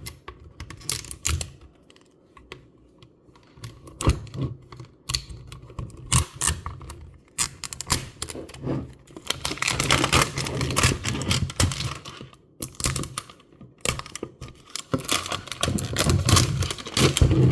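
A paper wrapping being picked at and peeled off a small plastic toy package: a quick, irregular run of clicks and taps from fingernails on paper and plastic, with bursts of rustling and tearing, busiest near the middle and again near the end.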